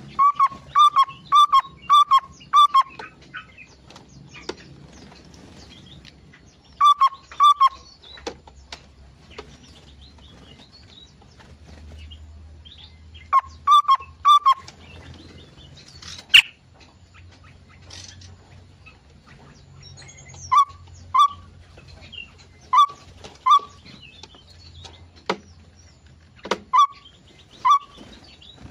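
Small aviary birds calling: short, clear notes repeated in quick runs of two to five, with pauses of several seconds between runs, and a few sharp clicks in between.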